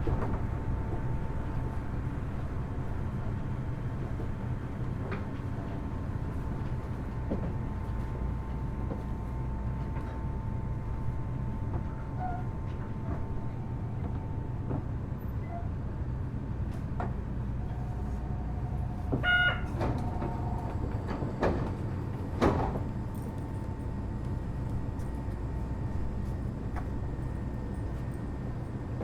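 Inside a Kitakyushu Monorail Series 1000 car at a station stop: a steady low running rumble with a faint steady whine, then about two-thirds through a short electronic beep and the sliding doors moving, with two sharp thumps.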